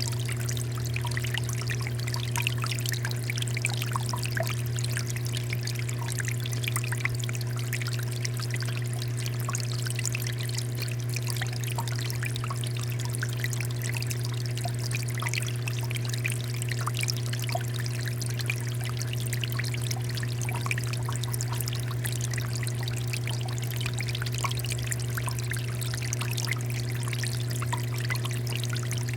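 Water fountain running, its water pouring and splashing steadily, with a steady low hum underneath.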